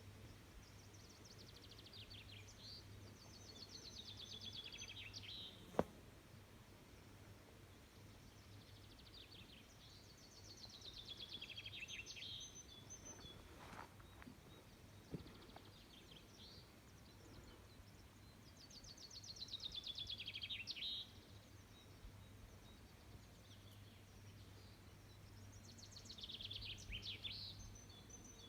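A songbird singing the same rapid, descending trilled phrase four times, each phrase a few seconds long and about eight seconds apart, over a faint steady low hum. A single sharp click about six seconds in.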